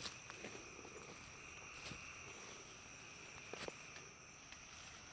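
Faint, steady chirring of an insect chorus, with a few brief soft clicks, about two seconds and three and a half seconds in.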